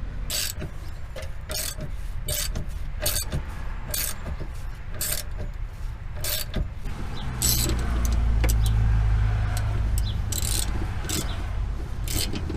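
Ratchet wrench working the bolts of a rear camber arm, a run of sharp clicks spaced about a half second to a second apart. A low rumble comes in a little past halfway and fades after a few seconds.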